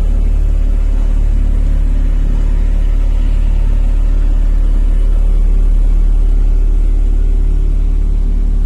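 JCB Vibromax soil compactor's diesel engine running steadily, with a deep, even rumble.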